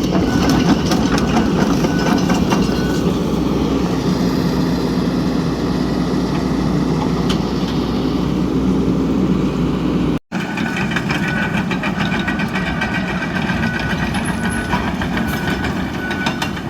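John Deere compact excavator's diesel engine running under work, with clanking from the machine and a repeating string of short high beeps. The sound breaks off for an instant about ten seconds in, then resumes.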